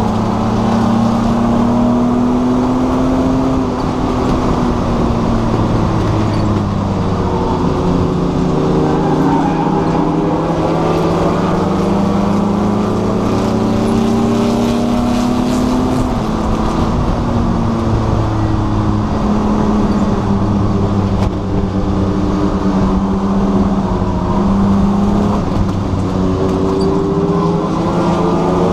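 Race car engine heard from inside the stripped-out cabin, pulling hard with its pitch rising and falling again and again as the car accelerates and slows around the track, over constant road and wind noise.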